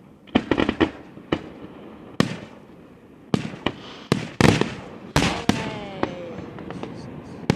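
Fireworks display: a string of sharp bangs from bursting shells, with a quick run of crackles about half a second in and several louder reports between two and five and a half seconds.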